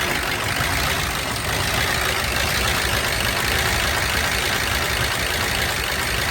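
An old pickup truck's engine idling steadily, just after being restarted.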